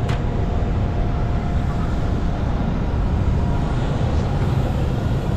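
Steady low rumble of machinery-like background noise, with a faint hum and a short click at the very start.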